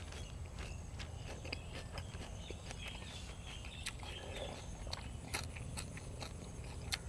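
A person chewing close to the microphone, with irregular crisp crunches and mouth clicks.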